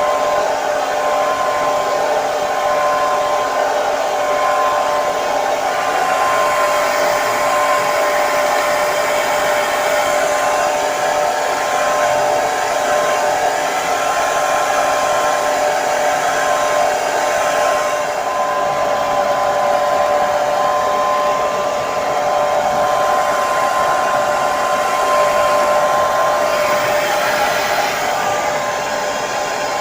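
Hair dryer running steadily: an even blowing noise with a steady motor whine.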